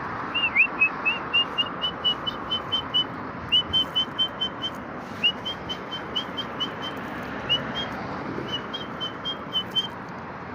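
A person whistling short, high, slightly rising notes in quick runs, about four a second, with short pauses between runs, calling pigeons in to be fed. A steady hiss lies underneath.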